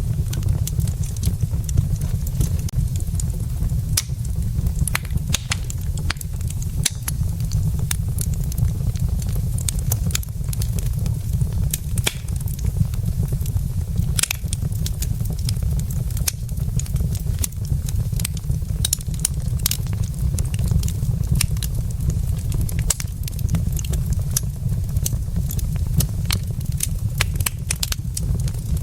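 Wood fire burning in a fireplace, with irregular sharp crackles and pops from the logs over a steady low rumble.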